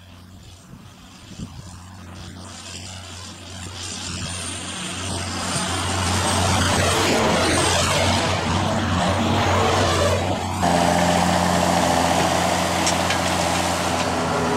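A vehicle engine draws nearer, growing steadily louder over several seconds, then runs close by. About ten seconds in, its note changes suddenly.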